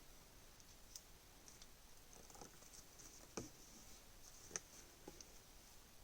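Near silence: faint background hiss with a few scattered faint clicks.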